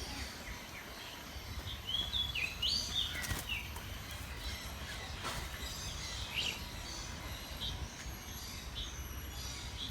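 Several birds calling with short, upward-sliding chirps, busiest about two to three seconds in, over a low steady rumble.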